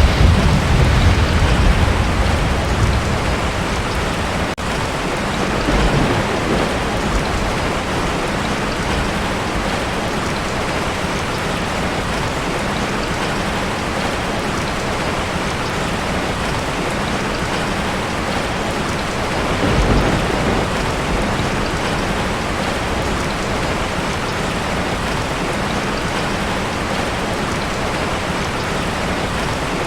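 Heavy rain falling steadily on a tin roof, with a rumble of thunder right at the start that fades over a few seconds. Two weaker rumbles follow, about six seconds and twenty seconds in.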